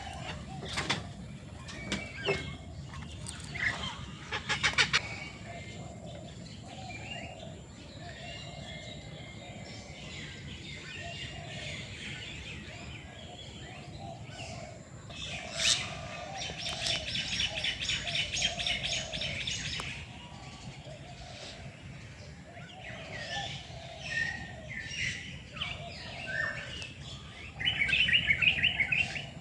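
A mix of captive birds calling together: assorted chirps and calls, with a fast rattling trill around the middle and another near the end.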